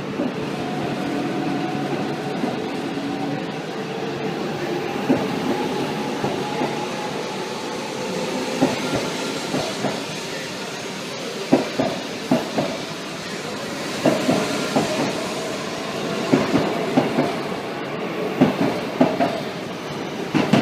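Shinkansen train pulling out of the platform: a whine rising in pitch over the first several seconds, then wheel clicks over the rail joints and points that come closer and closer together as it gathers speed, over a steady rushing noise.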